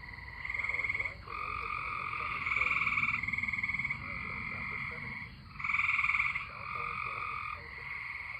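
A chorus of tree frogs, several calling at once in overlapping pulsed trills about a second long each.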